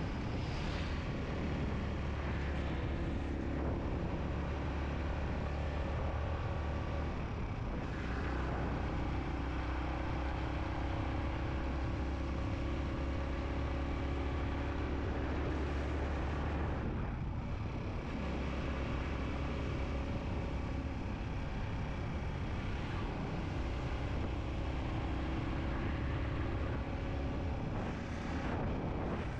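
Yamaha MT-15 motorcycle's single-cylinder engine running steadily under way, mixed with wind and road noise, the sound dipping briefly about three times.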